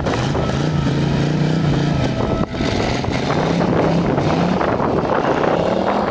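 Hot rod roadster's engine running under throttle as it drives off along a slushy road, its note holding, dropping back and climbing in pitch twice.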